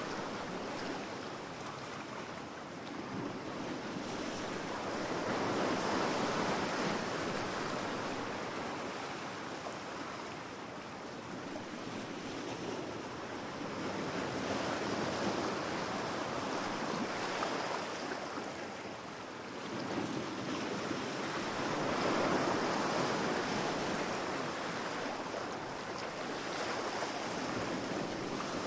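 Ocean surf: waves washing in continuously, the noise swelling and fading in slow surges every several seconds.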